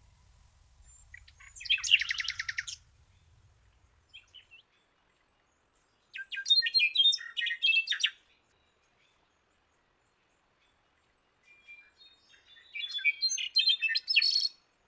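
Songbird singing in separate phrases with pauses between: a fast, even trill about two seconds in, then a varied chirping phrase around six seconds and a longer twittering phrase near the end.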